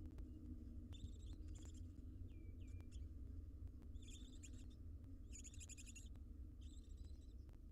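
Barn owls in a nest box giving five short, raspy hissing calls, with the longest about halfway through. Faint scattered ticks and a steady low hum lie under them.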